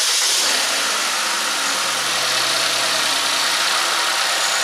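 2012 Chevy Equinox's four-cylinder ECOTEC engine idling steadily, seconds after it has started.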